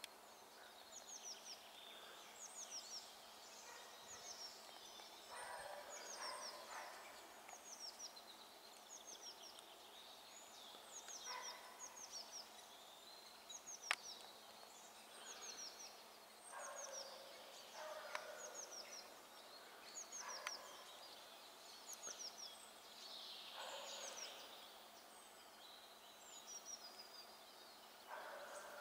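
Faint birdsong: many short, high, falling chirps repeated over and over, with lower sounds coming and going every few seconds and one sharp click about halfway through.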